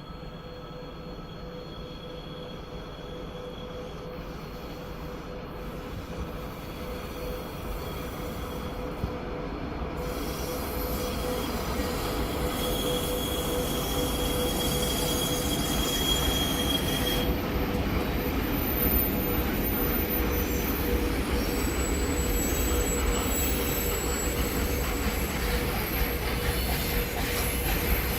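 A train approaching and running past on the rails, getting steadily louder through the first half and then holding loud, with thin high-pitched wheel squeal over the rumble.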